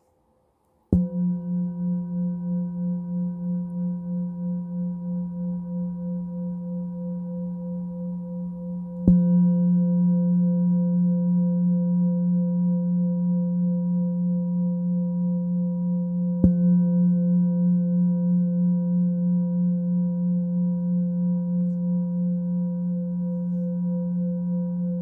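Singing bowl struck three times, about eight seconds apart, each stroke ringing on with a low hum and higher overtones that pulse slowly as they fade; the middle stroke is the loudest.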